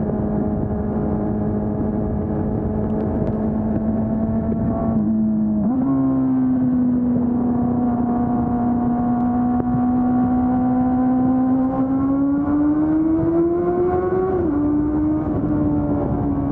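Honda CB400 Super Four's inline-four engine on stock exhaust, running steadily while riding. About five seconds in the pitch dips and jumps up as the throttle changes, then near the end the revs climb for a couple of seconds and drop suddenly at a gear change.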